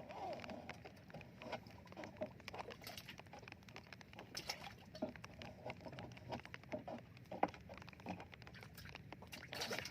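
Irregular patter of small taps and knocks with a few short squeaks, from a longline being hauled by hand aboard a small wet fishing boat.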